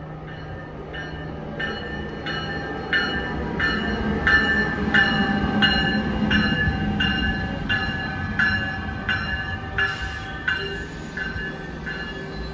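NJ Transit electric locomotive and Comet coaches rolling into the station, with wheel and motor rumble that swells as the locomotive passes. Over it the locomotive bell rings steadily, a little over two strokes a second. A faint tone slowly drops in pitch as the train slows.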